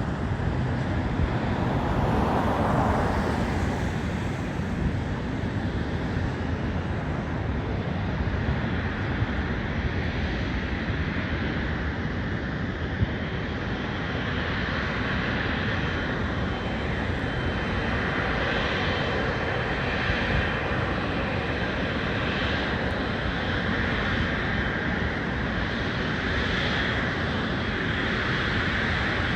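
Airliner engine noise at an airport: a steady rumble with a higher whine that grows stronger about halfway through.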